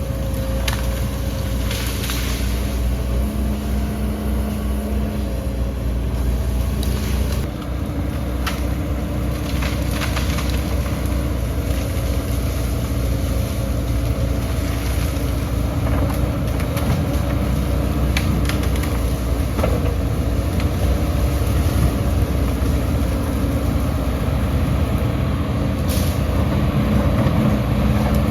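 Heavy diesel earthmoving machinery, an excavator and dump trucks, running steadily, with a few sharp knocks scattered through.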